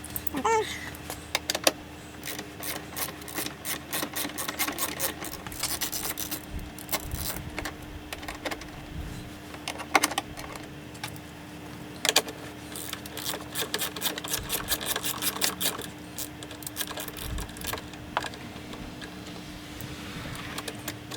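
Hand tools and metal parts being handled: scattered clicks and metallic rattles, with runs of rapid ticking, over a steady low hum.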